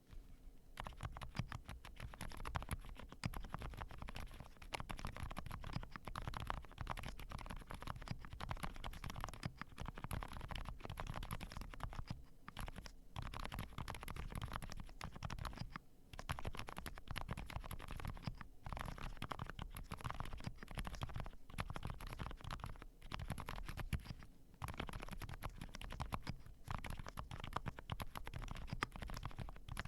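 Zoom65 mechanical keyboard with lubricated Cherry MX Silent Black linear switches being typed on in a fast, steady run of soft, muffled keystrokes, with a bubbly, scratchy feel. The typing pauses briefly a few times.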